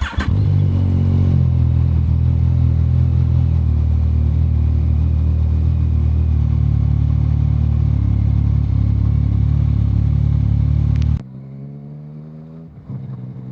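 Yamaha MT-09 inline-three engine cold-started: it catches right away and settles into a steady idle. About eleven seconds in the sound drops abruptly to a quieter, smoother idle.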